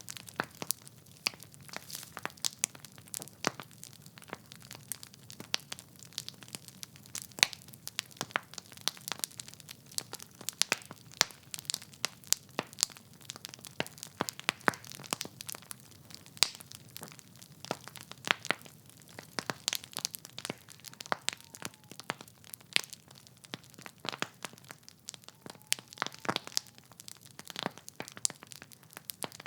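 Wood fire in a fireplace crackling: logs burning with many irregular sharp pops and snaps over a faint low rumble of flame.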